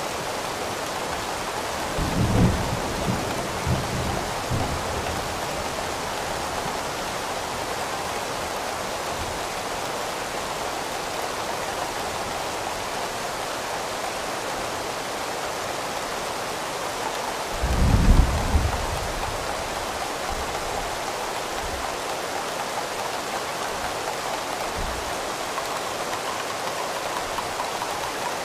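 Steady rain falling. Two short, low rumbles of thunder break through it, one about two seconds in and a louder one about eighteen seconds in.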